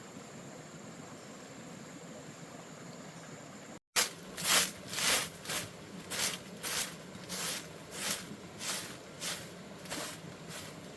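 A steady faint hiss, then, after a sudden cut, a run of about a dozen rhythmic swishing strokes, roughly two a second.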